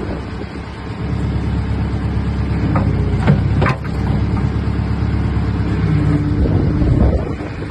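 Old diesel engine of the plant machine running steadily, with a few sharp knocks about three to four seconds in.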